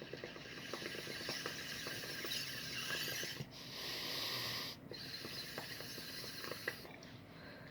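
Water bong bubbling as smoke is drawn through it: a rapid crackle of small bubbles under a steady hiss that breaks off twice briefly and stops shortly before the end.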